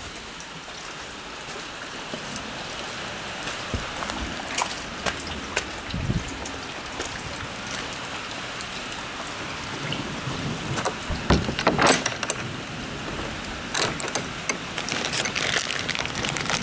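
Steady heavy rain falling, slowly growing louder, with scattered sharp knocks and clacks of handling close by, the loudest cluster a little past the middle.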